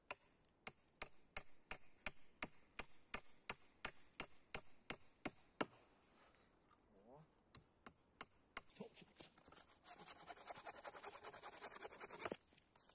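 A hammer driving nails into wooden poles, with about fifteen quick, even taps at roughly three a second, then a few more strikes after a pause. Near the end comes a brief rasping noise.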